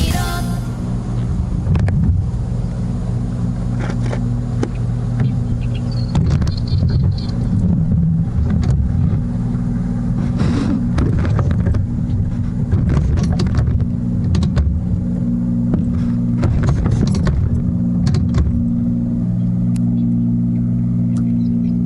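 Harley-Davidson motorcycle engine running with a steady low throb that wavers in the middle stretch, with scattered clicks and knocks over it.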